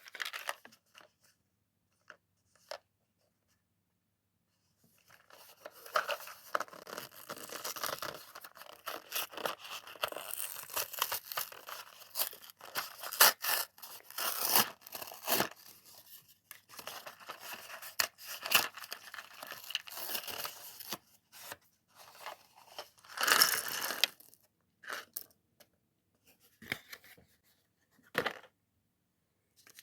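Lego set packaging being torn open and handled: long stretches of crackly tearing and rustling with sharp clicks, a louder tear about three-quarters of the way through, then a few separate clicks.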